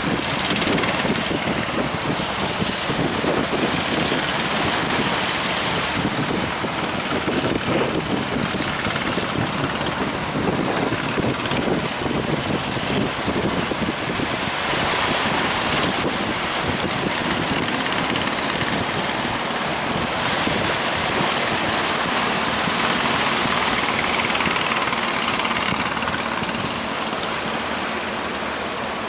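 Big sea waves surging and breaking in a steady rushing noise that swells and eases, with wind on the microphone.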